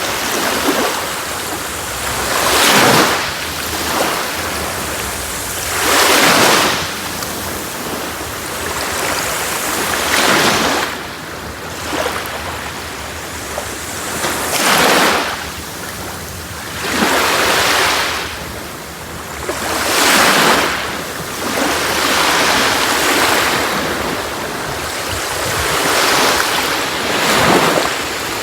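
Sea waves breaking and washing up a beach, one surge after another every three to four seconds, with a steady wash of surf between them.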